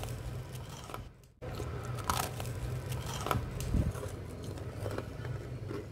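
Crisp fried rock buns being bitten and chewed close to the microphone: several sharp crunches over a low steady hum, with a brief drop-out just over a second in.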